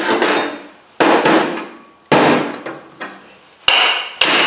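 Five sharp hammer blows on a metal motor part, spaced roughly a second apart, each ringing briefly before dying away. The blows fall on a part being knocked loose from the teardown, which the worker has just called aluminum.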